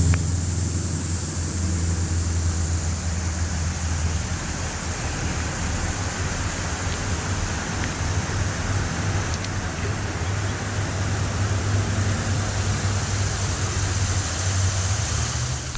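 Steady rushing of flowing creek water, with a low, fluttering rumble underneath.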